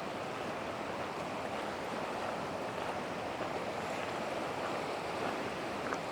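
The Yellowstone River, swollen with meltwater and rain, rushing in a steady, even roar of water.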